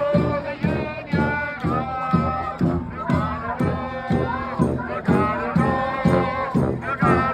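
Brass band playing an upbeat tune, horns carrying the melody over a steady drum beat of about two to three strokes a second.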